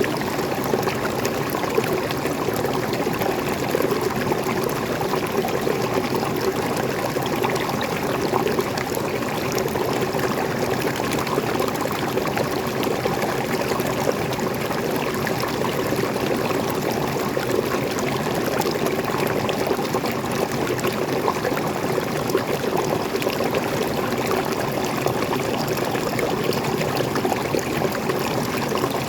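Waterfall and stream of fresh water flowing steadily, an even, unbroken rush of falling water.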